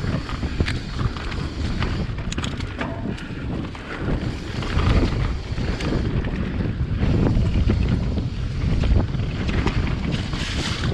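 Wind rumbling on a GoPro's microphone during a fast mountain-bike descent, with the bike's chain and frame rattling and clicking as it rolls over rough trail.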